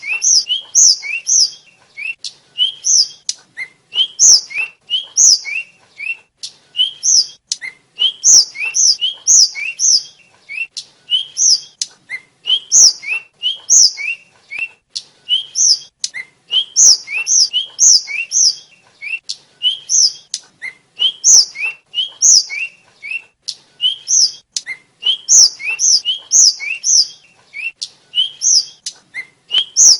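A tledekan (sikatan), a small Asian flycatcher, singing: short phrases of quick, high chirps, repeated over and over about once a second.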